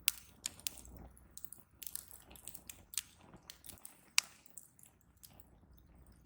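Wood fire crackling: irregular sharp pops and snaps, a few every second, with the loudest snap about four seconds in, over a faint low rumble of the flames.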